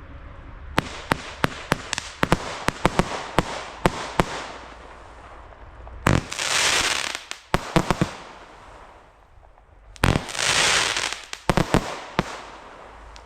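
Weco Superfly firework going off: a quick run of sharp bangs, then two loud hissing bursts about four seconds apart, each followed by a few more bangs.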